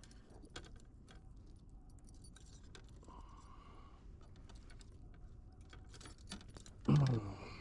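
Quiet, scattered small clicks and light jangling, typical of a fish and tackle being handled in a kayak, with one short vocal sound near the end.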